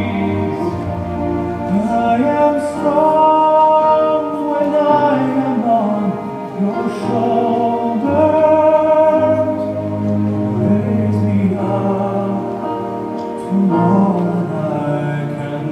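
A song with singing voices holding long, wavering notes over accompaniment.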